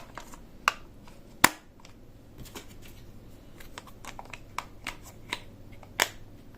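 Hard plastic toy pieces being handled, making scattered small clicks and taps with a few sharper clacks; the loudest is about a second and a half in.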